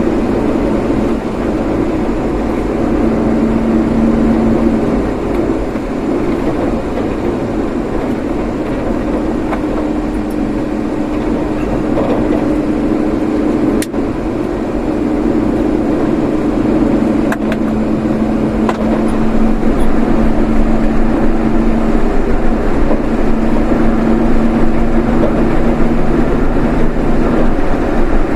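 A road vehicle driving along: steady engine and road noise, with a low drone that shifts in pitch a few times and a few brief clicks.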